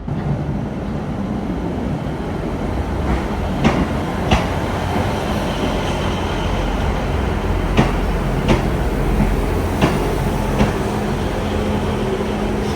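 Passenger train running on the rails with a steady rumble, its wheels clicking over rail joints in pairs, three times.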